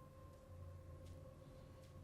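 Near silence: a faint steady hum with a couple of faint clicks.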